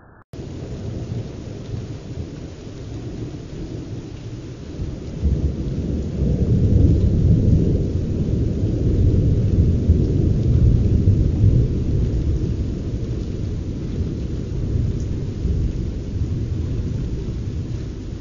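Thunder rumbling: a long, low roll that swells about five seconds in, is loudest through the middle, and slowly fades.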